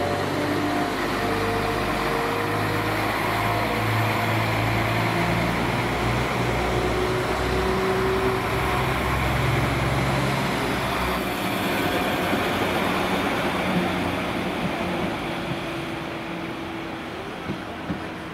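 Northern Class 195 diesel multiple unit pulling away past the platform: steady underfloor diesel engine drone with wheel and rail noise. The engine note drops out about two-thirds of the way through and the sound fades as the train draws off, with a couple of sharp clicks near the end.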